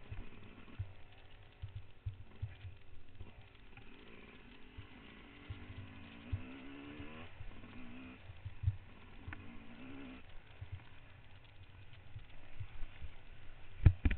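Trail motorcycle engine revving up and down, over frequent dull low thumps, with a few louder knocks near the end.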